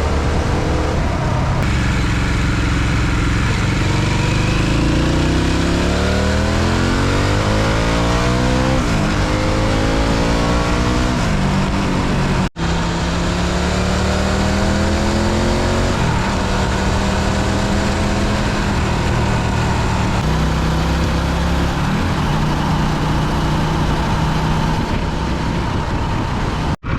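Harley-Davidson V-twin motorcycle engine under way, rising in pitch as it accelerates and dropping back at each upshift, with a steady rush of wind. The sound cuts out for an instant about halfway through and again near the end.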